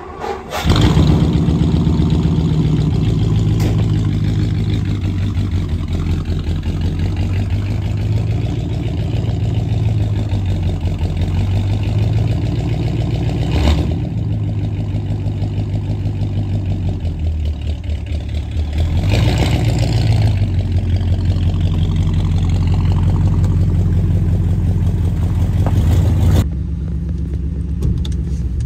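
1957 Ford Fairlane's 292 Y-block V8 catching at the start and then running steadily, getting somewhat louder about two-thirds of the way through.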